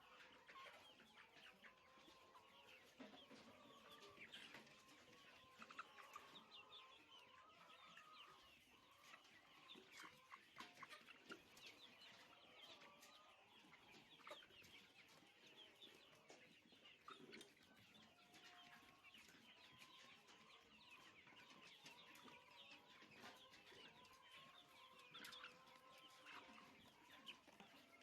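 A flock of chickens in a poultry house, heard faintly, clucking and chirping continuously with many overlapping short calls.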